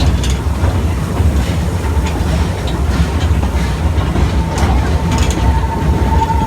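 Narrow-gauge zoo train riding along, heard from aboard: a steady low rumble of the wheels on the track with scattered clicks at the rail joints. A faint steady high tone joins about four seconds in.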